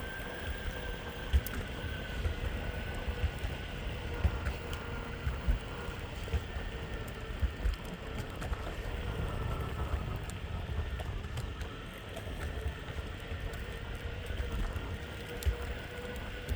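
Meepo Hurricane electric skateboard rolling along: a steady motor whine that drifts slightly in pitch with speed, over a continuous rumble of the wheels on pavement with frequent small knocks from bumps in the road.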